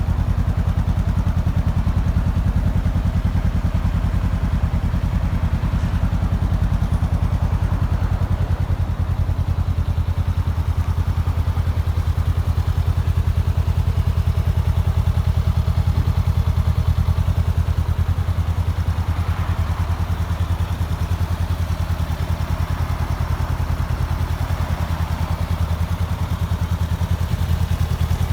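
Honda CB500X's 471 cc parallel-twin engine idling steadily through an aftermarket Fuel carbon exhaust.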